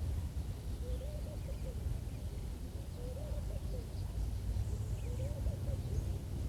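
Wind rumbling on the microphone, over a low warbling animal call that repeats about every two seconds, with faint high chirps between.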